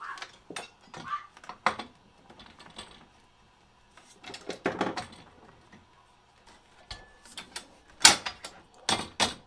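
Metal parts of a trolling motor mount clicking and clanking as they are handled and slid into place, with a few sharp knocks near the end.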